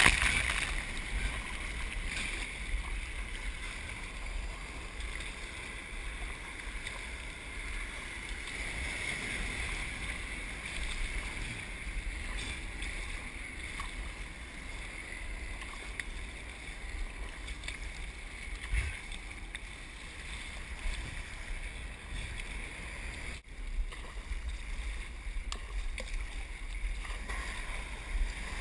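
Wind rumbling on the microphone over the steady hiss of hurricane surf, with a few faint knocks.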